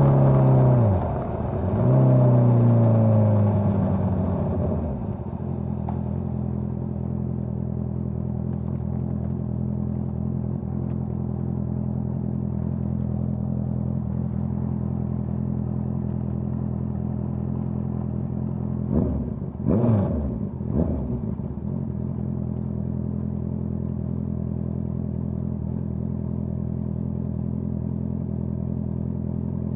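A Honda CBR650R's inline-four engine with a Dominator GP full-system exhaust. Its revs fall as the bike slows, with a dip and pick-up about two seconds in, then it settles into a steady idle. Around twenty seconds in it gives a few quick throttle blips, then returns to idle.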